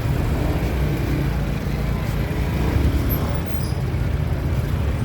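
Ferry boat's engine running with a steady low rumble.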